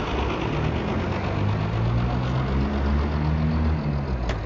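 Truck engine running, heard from inside the cab together with road noise. Its note climbs slightly through the middle and eases off near the end, with a single short click just before the end.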